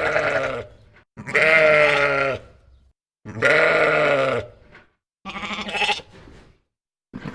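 Four long, wavering bleats from a sheep or goat, one after another with short gaps; the last one is quieter.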